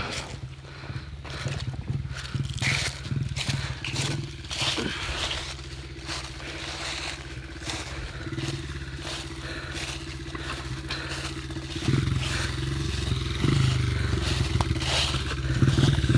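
A dirt bike's engine idling steadily, rising a little about twelve seconds in, under repeated scraping and crunching clicks of handling and footsteps.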